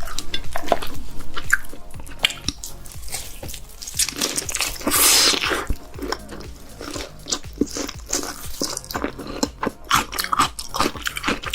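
Close-miked lobster eating: crunching and chewing with a string of sharp cracks and clicks, and a longer, louder crunch about five seconds in.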